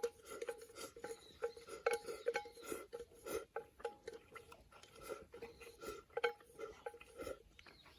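Eating utensils tapping and scraping against a rice bowl in quick, irregular clicks, each with a brief ringing note, as the last mouthfuls are scooped up.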